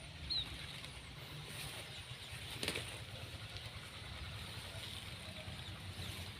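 Faint rustling in grass and field plants, with one short rustle or knock about two and a half seconds in, over a steady low rumble.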